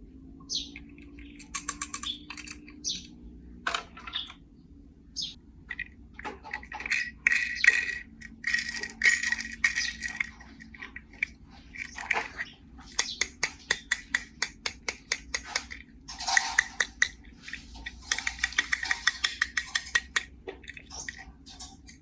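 Small plastic and die-cast toy cars and a plastic carry case being handled: irregular clicks, clatters and short scrapes. A run of quick, evenly spaced clicks comes about two thirds of the way in.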